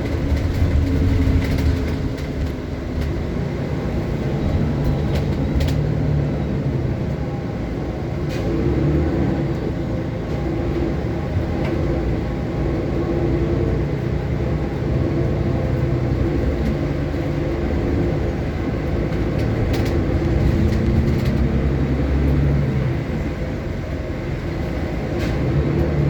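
City transit bus running, heard from inside: a steady low engine drone and road rumble that swells and eases a little as the bus moves, with a few brief clicks and rattles.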